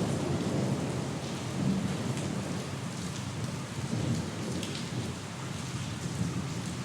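Steady rain, with a low roll of thunder that dies away over the first few seconds.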